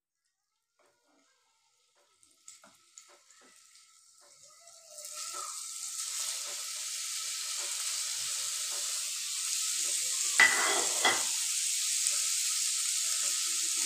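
Marinated paneer cubes going into hot oil in a nonstick kadai: a few light clicks as the pieces drop in, then from about five seconds in a steady sizzle of frying, with two short clatters near ten and eleven seconds.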